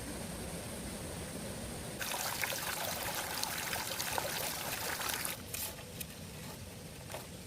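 Water trickling and splashing. It gets louder and crackly about two seconds in, then settles back to a quieter trickle with a few light clicks for the last couple of seconds.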